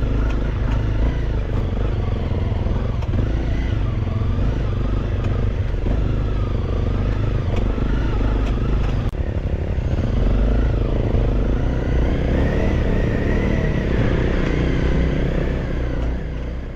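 Dual-sport motorcycle engine riding a rough dirt track, its revs rising and falling over and over, over a heavy low rumble with occasional knocks and rattles.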